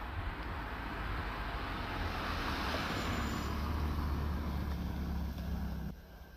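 Class 379 electric multiple unit passing over the level crossing: a steady rushing rumble of wheels on rail over a low hum, swelling to a peak about halfway through and easing off before it cuts out.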